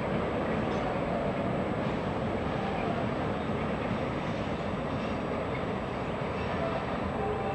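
Long container freight train rolling slowly through a rail yard: a steady rumble of wheels on rails, with a few faint, brief squeals in the last few seconds.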